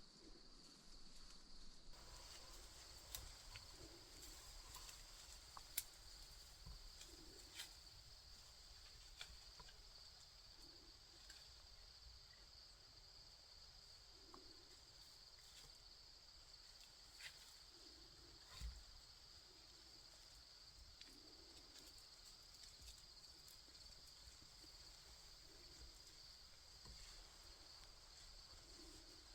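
Near silence with a faint, steady, high-pitched chorus of insects and a few scattered soft ticks and clicks.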